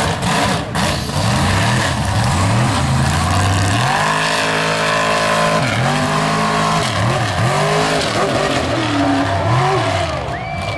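Mud truck engine revving hard over and over, its pitch climbing and dropping. About four seconds in it is held at high revs for a couple of seconds, then comes a run of shorter revs.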